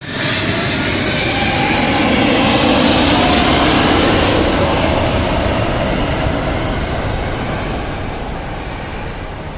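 Cargolux Boeing 747-8F freighter's four jet engines at go-around thrust: loud jet engine noise that builds to a peak about three seconds in, then slowly fades as the aircraft climbs away.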